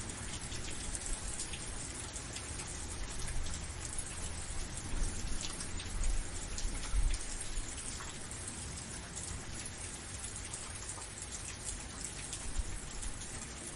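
Steady rain falling, with many individual drops ticking sharply on a surface over the even hiss of the downpour.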